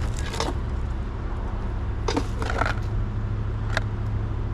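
Items in a curbside debris pile being handled and moved: a few short bursts of rattling and clattering, over a steady low rumble.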